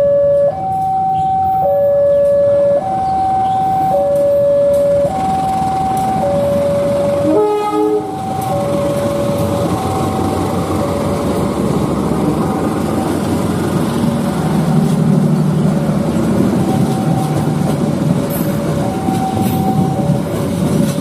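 A level-crossing warning alarm sounds, two electronic notes alternating high and low about once a second. About 7.5 s in, the CC203 diesel-electric locomotive gives one short horn blast. Then the locomotive and its stainless-steel passenger coaches pass close by with a heavy rumble and rattle of wheels on rail, while the alarm goes on fainter underneath.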